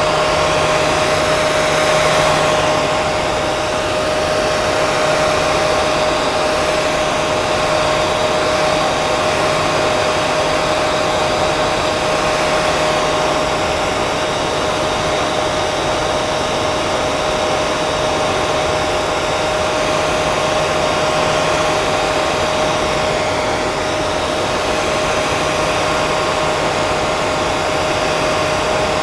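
Hair dryer running steadily, a rush of blown air over a constant motor hum.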